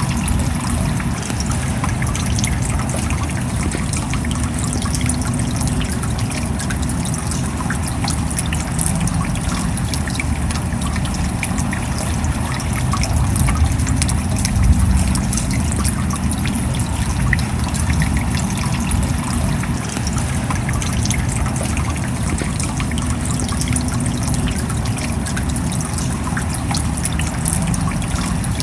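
Steady rain: many separate drops heard as fine ticks over a continuous low rush of water, swelling slightly about halfway through.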